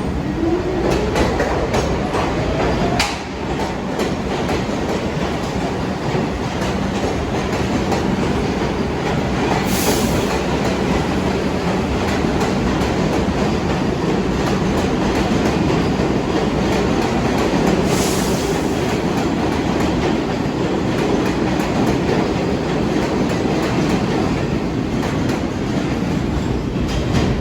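New York City subway train pulling away, its motor whine rising in pitch over the first few seconds, then running steadily with wheel clatter and clicks over the rail joints.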